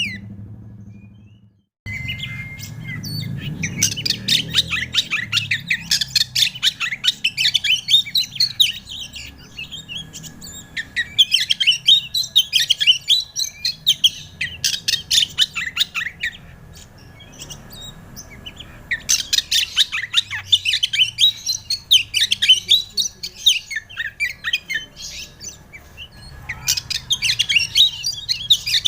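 Oriental magpie-robin (kacer) singing in fast, chattering runs of varied chirps and whistles, in four bursts with short pauses between them, beginning about two seconds in. A faint steady high tone runs beneath the song.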